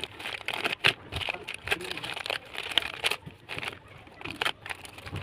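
White slate pencil being crunched between the teeth close to the microphone: a run of irregular dry crunches, several a second.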